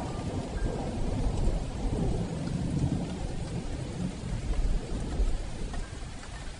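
Heavy rain drumming on a metal roof, with thunder rumbling low underneath.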